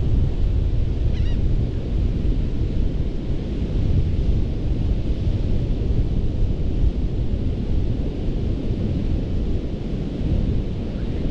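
Ocean surf breaking and washing on a sandy beach, a steady deep rumble with wind buffeting the microphone. A brief faint high chirp sounds about a second in.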